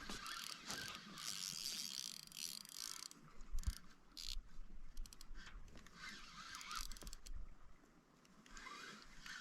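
Spinning reel being cranked to retrieve line, a whirring with ratchety clicks that comes and goes in stretches.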